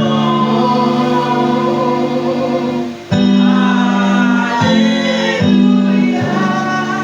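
Voices singing a Yoruba gospel chorus together, in long held notes with short breaks between phrases.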